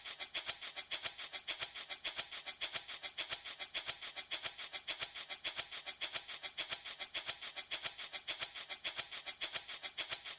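Handmade wooden baby rattle shaken steadily back and forth, its filling rattling in quick, even, hissy strokes, several a second, alternating stronger and weaker.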